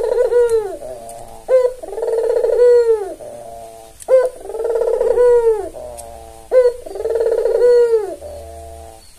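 Albino Barbary dove (puter) cooing over and over. Each call is a sharp opening note followed by a rolling, trilled coo about a second long, repeated about every two and a half seconds.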